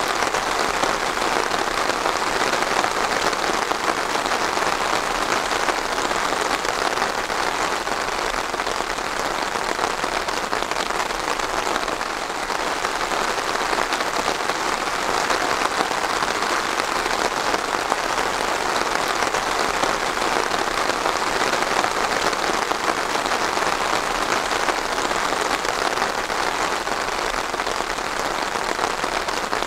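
Steady rain falling and pattering on a surface, a dense even hiss with no let-up.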